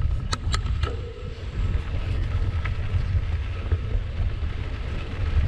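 Wind buffeting the microphone as a steady low rumble while riding a mountain bike, with a few sharp clicks in the first second.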